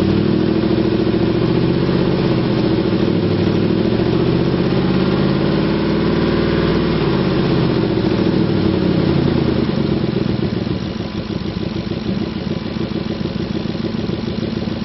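2004 Ford F-150's 5.4-liter V8 running at a raised idle with slight rises and falls in engine speed. About ten seconds in it settles to a lower, quieter idle.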